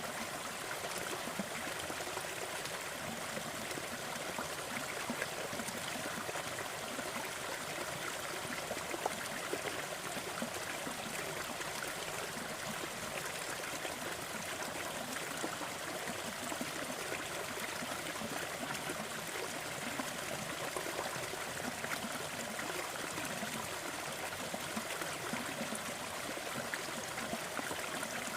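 Fireplace fire crackling in small, irregular pops over a steady, even rushing noise like a stream.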